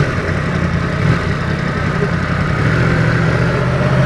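Yamaha MT-10's crossplane inline-four engine, fitted with an Akrapovic exhaust, running steadily at low revs as the bike is ridden slowly.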